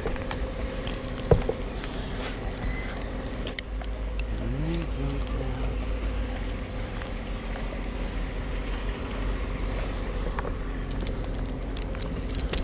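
Steady low hum of an engine running in the background, with scattered small clicks and knocks.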